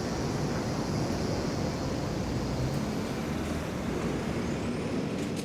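Road traffic noise: a steady rumble of vehicles moving along the street.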